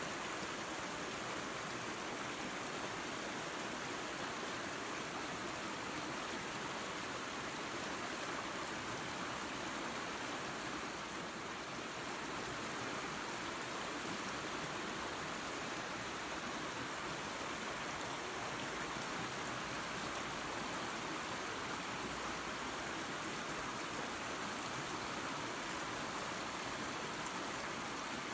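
Creek and small waterfall running steadily: an even, unbroken rush of water.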